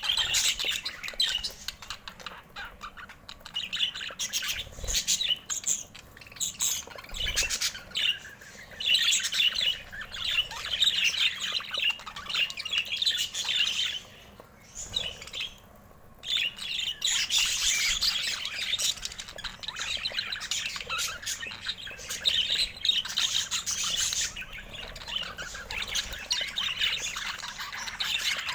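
Budgerigars chirping and chattering in dense, overlapping calls, with a short lull about halfway through.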